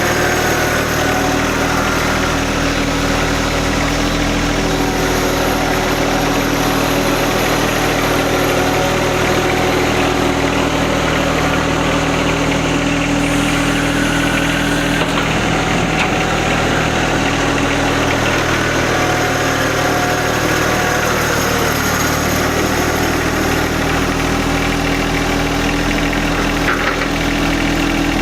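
John Deere 1025R sub-compact tractor's three-cylinder diesel engine running steadily, its pitch shifting slightly now and then.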